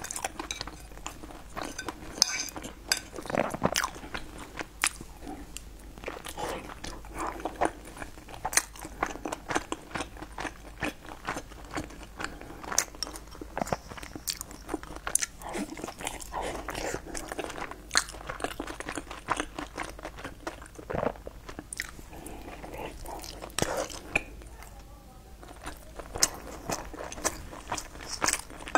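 Close-miked eating sounds: a person chewing, with many short, sharp clicks scattered throughout. Some of the clicks are chopsticks tapping against a ceramic bowl.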